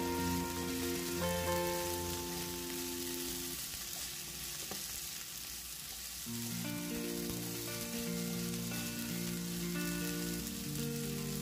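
Chicken pieces sizzling in hot oil in a nonstick frying pan while being stirred with a silicone spatula. Background music with held notes plays over it and thins out briefly in the middle.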